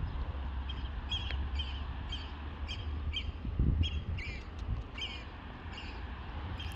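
A bird calling over and over in short, high notes, about two a second, over a steady low rumble of wind on the microphone.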